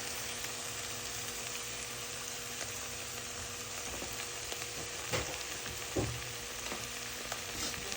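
Salmon and bacon frying in a pan, a steady sizzle, with a couple of light knocks about five and six seconds in.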